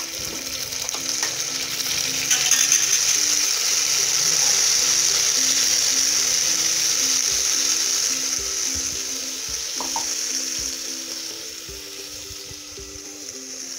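Ground onion and tomato paste sizzling in hot oil in a clay pot, the sizzle swelling loud about two seconds in and easing off gradually toward the end. A simple background melody plays underneath.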